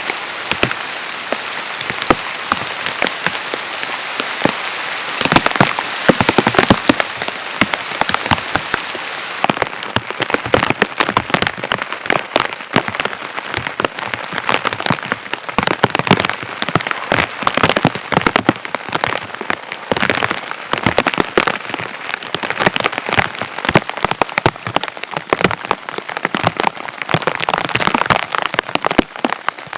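Heavy rain falling, with many loud separate drops striking close by. A steady hiss of rain thins about ten seconds in, after which the individual drop hits stand out.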